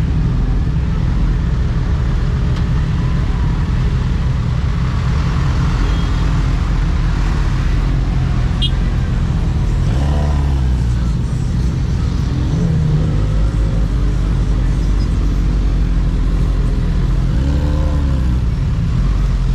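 Motorcycle engine running under way at highway speed, with a steady rumble of engine, tyres and wind. The engine pitch rises and falls a few times.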